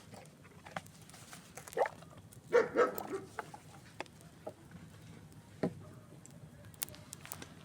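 A dog barking a few times, loudest about two and a half seconds in, over a campfire crackling with scattered sharp pops.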